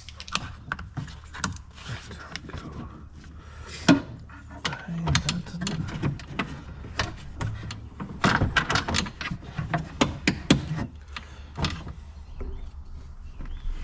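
Irregular clicks, knocks and scraping from a car door lock mechanism being worked into position inside the door cavity, with a dense run of clicks about eight to ten seconds in.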